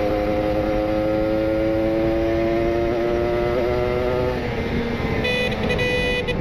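Kawasaki Ninja RR two-stroke engine on a rich carburettor setting, running through an R9 aftermarket exhaust: its pitch climbs steadily for about four seconds under gentle acceleration, then falls as the throttle eases. Near the end, a vehicle horn beeps in short pulses.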